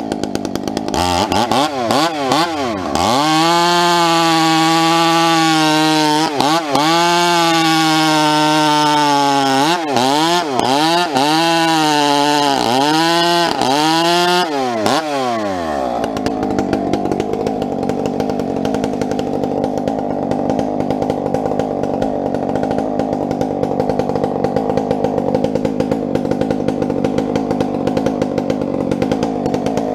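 Two-stroke chainsaw running at full throttle, its pitch dipping briefly several times as it is loaded in a cut through firewood. About halfway through it drops back to a rough idle.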